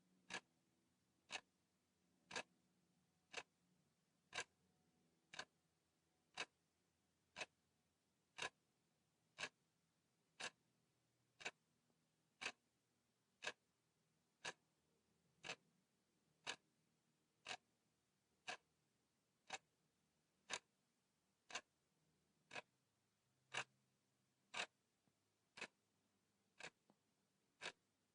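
Clock-style ticking, one sharp tick every second, steady and even: the timer's tick counting off the seconds.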